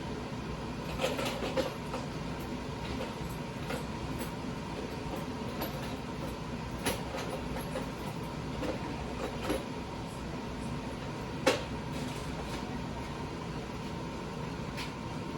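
Steady hum of a garage heater, with scattered clicks and knocks as a rubber stopper is worked into a mounting hole by hand. The sharpest knocks come about 7 and 11.5 seconds in.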